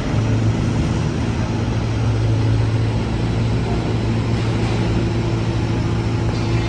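Liebherr T 264 diesel-electric mining dump truck running on the move, a steady low drone with a constant hum beneath it; a slightly higher tone joins in about two thirds of the way through.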